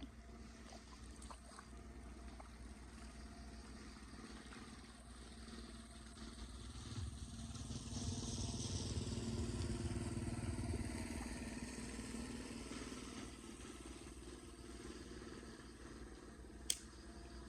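A motor vehicle passing by on the street: it grows louder, peaks and fades away over several seconds, over a steady low outdoor background. A single sharp click near the end.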